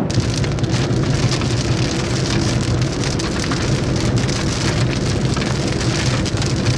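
Heavy thunderstorm rain pelting a hard surface in a dense patter of drops, over a low steady hum.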